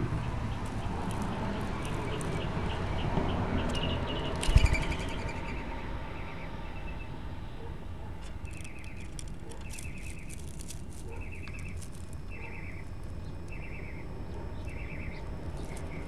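A small bird chirps steadily in the background, short chirps about once a second, over a low steady outdoor noise. A single loud thump sounds about four and a half seconds in.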